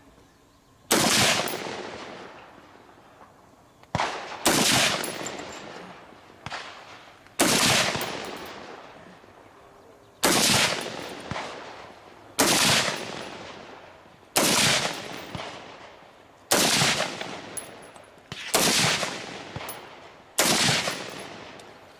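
About ten single gunshots fired at a steady, aimed pace, roughly one every two seconds, each followed by a long echoing decay. Two shots come close together about four seconds in.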